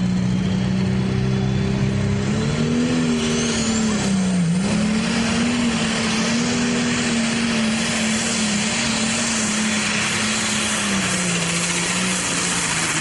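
International 1066 pro stock pulling tractor's turbocharged diesel engine running flat out under load down the pull track. The engine note climbs a couple of seconds in, dips sharply once about four and a half seconds in, holds, and falls away near the end, with a thin whistle rising in pitch over the first few seconds.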